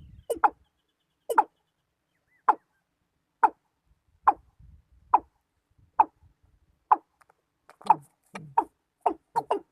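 Watercock calling: a series of short, clipped notes about once a second, which speed up into quicker, paired notes near the end.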